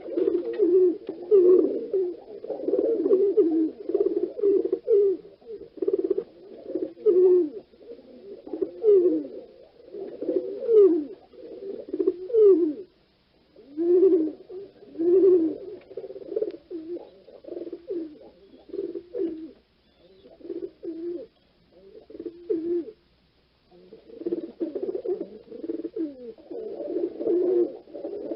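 Several pigeons cooing, their low calls overlapping almost without a break, with short pauses about thirteen seconds in and again around twenty-three seconds.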